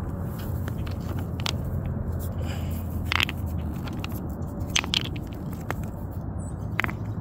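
Footsteps crunching and scraping over river rocks and gravel, with a few sharper clicks of stone on stone, over a steady low rumble.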